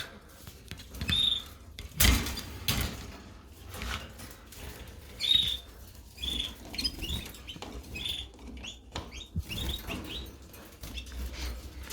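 Canaries giving short, sharp chirps, scattered singly and in small runs, with a few clicks and knocks among them.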